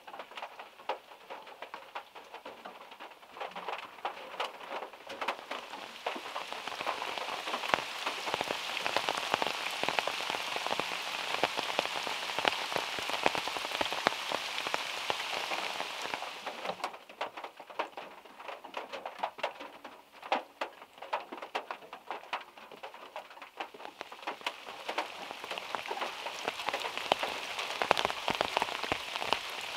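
Rain falling on a small car, with drops from the overhanging trees tapping the body: a dense hiss full of sharp drop ticks. It is heaviest in the first half, thins to scattered drops a little past the middle, then thickens again near the end.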